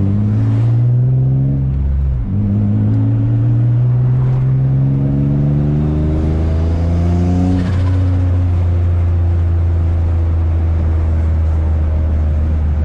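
Turbocharged VQ35 V6 of an Infiniti G35 accelerating: the revs climb for about two seconds, drop sharply at a gear change, climb again for about five seconds, then fall back to a steady lower drone as the car cruises.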